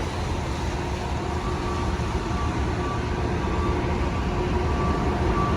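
Subway tunnel ventilation exhaust fan running in exhaust mode, a steady rushing roar with a faint steady hum in it. It is drawing air and smoke out of the tunnel through the emergency exit.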